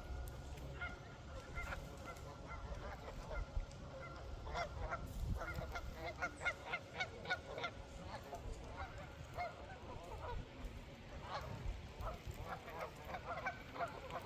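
A large flock of waterfowl on a pond calling at once, many short honking and quacking calls overlapping, busiest in the middle and again near the end.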